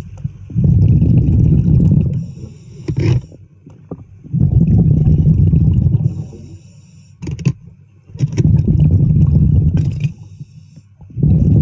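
Diver breathing through an underwater regulator: a short hiss on each inhale, then a loud low rush of exhaled bubbles, repeating about every four seconds, three full breaths with a fourth starting near the end.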